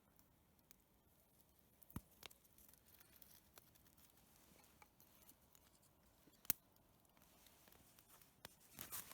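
Near silence, broken by a few isolated sharp clicks. The loudest click comes about six and a half seconds in, and a short cluster of soft rustling noises comes near the end.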